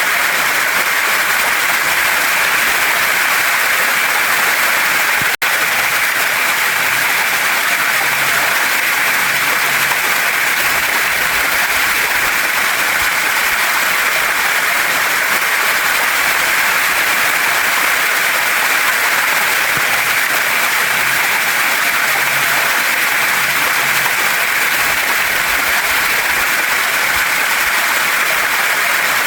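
Steady, even rush of a waterfall and stream, a dense hiss of falling water. The sound drops out for a split second about five seconds in.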